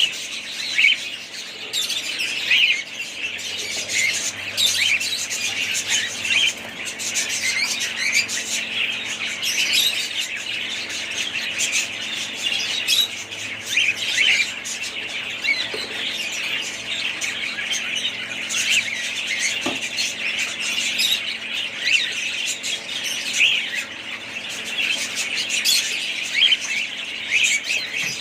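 Budgerigars chattering continuously: dense, overlapping short chirps, squawks and warbles.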